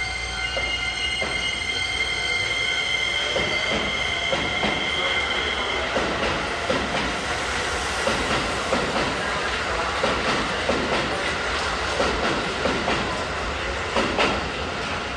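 Keisei stainless-steel electric commuter train pulling out of the station and gathering speed past the platform. A steady high-pitched whine lasts about the first six seconds. After that come repeated clacks of the wheels over the rail joints as the cars go by, with the loudest pair near the end as the last car passes.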